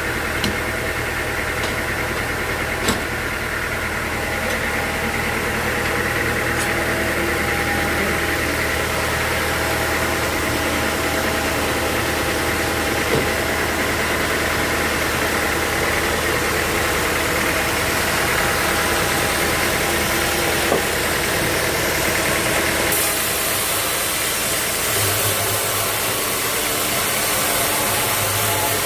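Sawmill machinery running steadily with an engine-like hum and a few sharp clicks. About 23 seconds in, a brighter hiss joins in and the low hum changes.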